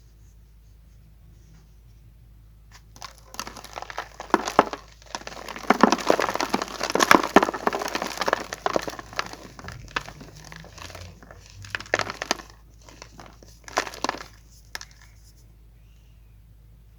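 Chalk being crumbled: dense crackling made of many small clicks. It starts about three seconds in, is busiest in the middle, and ends in a few short bursts.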